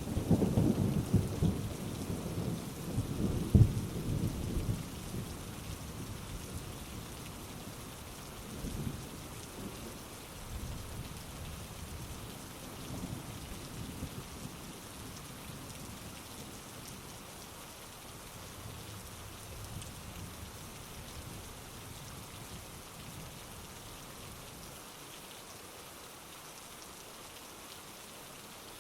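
Heavy rain falling steadily with thunder. A loud, low rumble in the first few seconds dies away, and a few fainter rumbles follow under the rain.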